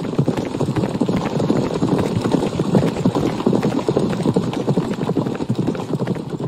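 Horse hooves clattering on the ground in a dense, irregular stream of knocks, like several horses moving at once.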